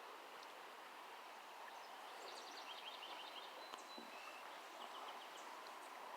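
Quiet outdoor ambience: a steady faint hiss with small birds chirping high, short notes in quick runs from about two seconds in.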